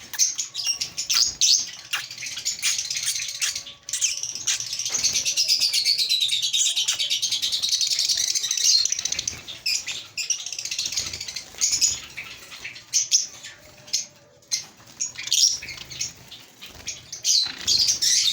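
A flock of small cage birds chirping and chattering continuously, many calls overlapping, with scattered sharp clicks and wing flutters among them.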